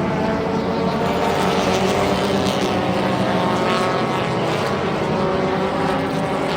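Several front-wheel-drive race car engines running at speed together on a short oval, their pitches overlapping in a steady drone.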